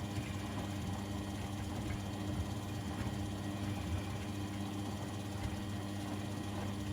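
Laundry machines running with a steady, even motor hum and a few faint small knocks.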